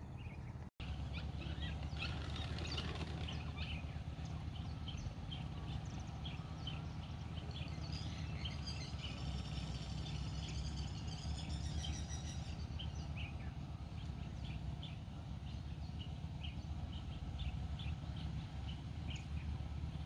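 Small birds chirping over and over against a steady low outdoor rumble, with a run of higher, wavering notes from about eight to twelve seconds in. The sound drops out for an instant near the start.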